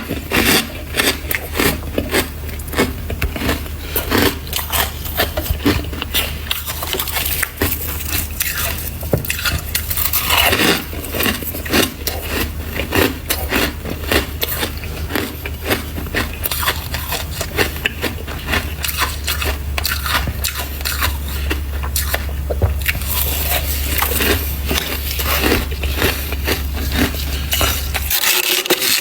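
Freezer frost being bitten and chewed close to the microphone: a dense, continuous run of crisp crunching and crackling, with a steady low hum underneath.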